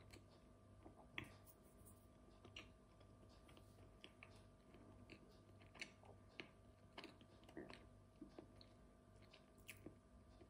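Faint chewing of hard Grana cheese: soft, irregular mouth clicks and smacks, over a low steady hum.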